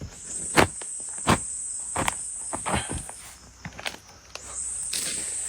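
A digging tool striking into earth about six times at uneven intervals. Crickets trill in a steady high buzz that drops out for about a second past the middle.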